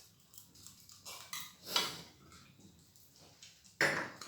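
Dishes and cutlery clattering during a meal: a few separate short knocks and scrapes, the loudest near the end.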